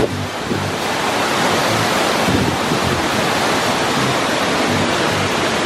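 Steady roar of a large waterfall heard up close, near enough to be in its spray.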